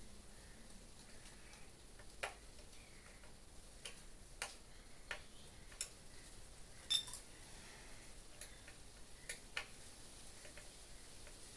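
Scattered light clicks and taps of table-fan parts being handled while the fan is taken apart and its nut loosened, about a dozen at uneven intervals, the loudest about seven seconds in.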